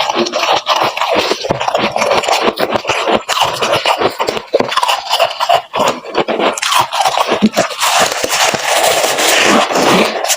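Someone chewing a mouthful of freezer frost: a loud, dense, unbroken run of crisp icy crunches, thickest in the last few seconds.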